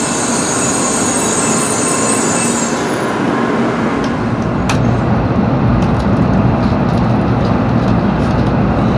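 N700 series Shinkansen: a steady high hiss while standing at the platform, then, after a cut about three seconds in, a steady low rumble heard inside the cabin as the train pulls out of the station, with a few faint clicks.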